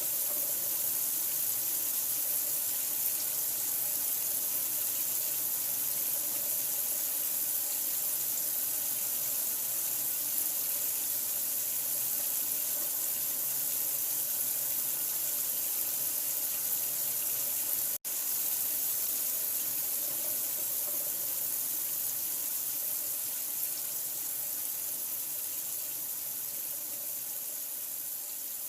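Water running steadily, an even rushing hiss strongest in the high end, with one split-second dropout about eighteen seconds in.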